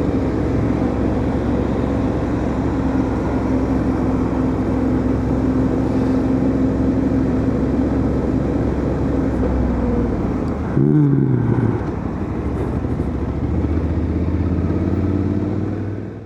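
Motorcycle engine running steadily while riding. About eleven seconds in, the note shifts briefly, as at a gear or throttle change, and then settles lower. The sound cuts off suddenly at the end.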